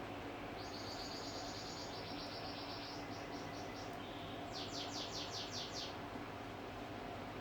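Domestic canary singing: a fast high trill, then a second trill a little lower, a few separate notes, and a run of about seven quick repeated down-slurred notes that ends about six seconds in.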